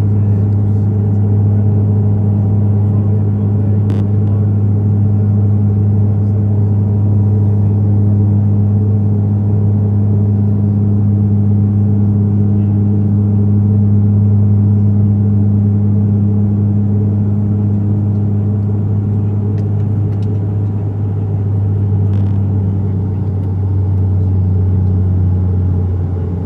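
Dash 8 turboprop propellers heard from inside the cabin: a steady, loud drone with a deep hum under a rushing noise. Near the end the drone eases and drops slightly in pitch as power is reduced.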